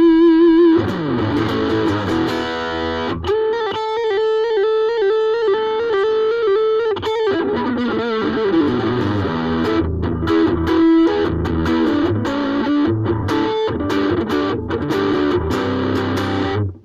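Ibanez AXS42 electric guitar, rewired with solid-core vintage wire, played as a single-note lead: long held notes with vibrato, then a run of changing notes, cutting off suddenly at the end.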